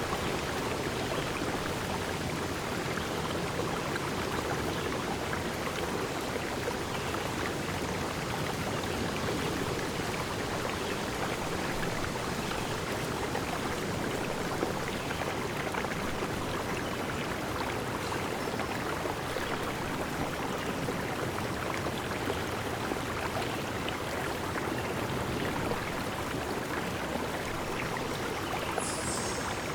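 Steady rushing of running water, an even, unbroken wash of noise with no pauses.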